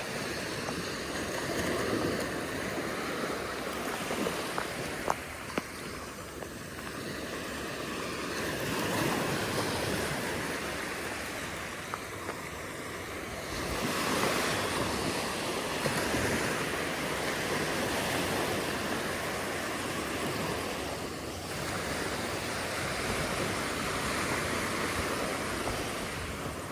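Ocean surf: waves breaking and washing up the beach in a steady hiss that swells louder every several seconds, with some wind on the microphone.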